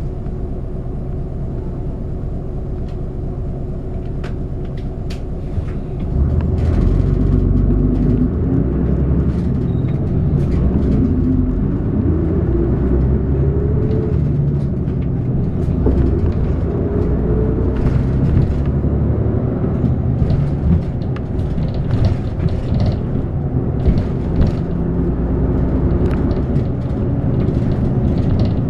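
City bus running between stops, heard inside the cabin: engine and road rumble that gets louder about six seconds in as the bus picks up speed, with the engine note rising a few times and light rattles from the bus body.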